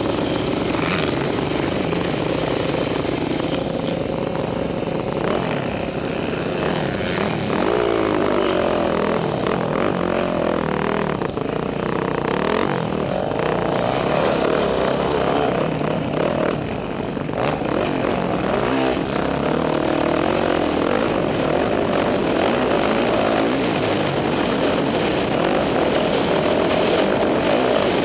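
Motocross dirt bike engine running hard as it is ridden, the revs rising and falling repeatedly through throttle changes and shifts.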